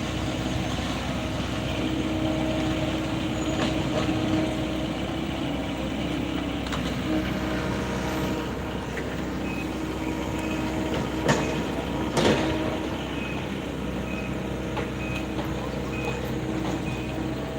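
Heavy diesel construction machinery running steadily at a construction site during soil excavation, with two sharp metallic clanks about two-thirds of the way through. Faint short beeps repeat in the second half.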